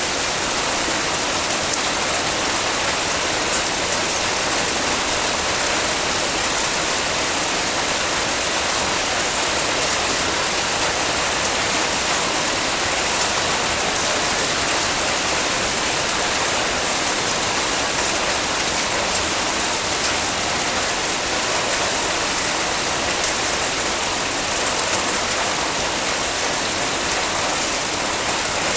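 Heavy rain falling steadily, an even hiss with a fine patter of drops.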